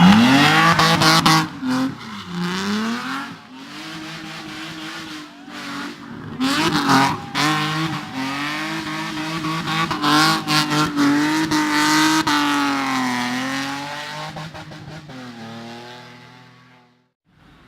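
Race car engine at full throttle on a hill climb, revs rising and falling over and over as it shifts and lifts for corners, with abrupt cut-offs between pulls. It fades away near the end.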